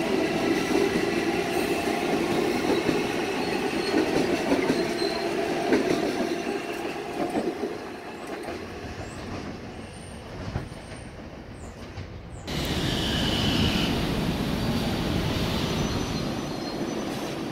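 Long Island Rail Road electric train running past on the tracks, steel wheels squealing, fading as it pulls away. Then a sudden change to a Kawasaki M9 electric multiple-unit train running close by, louder.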